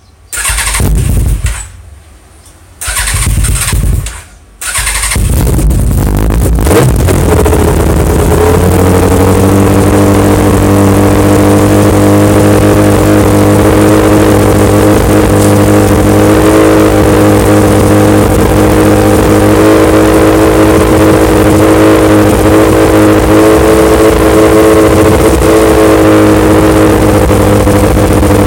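An R1 motorcycle engine being started. It fires briefly twice and dies, catches on the third try, runs unevenly for a few seconds, then settles into a steady idle.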